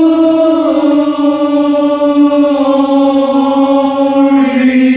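Men's voices of a barbershop chorus section singing one long held note in unison, the pitch stepping down slightly about four and a half seconds in.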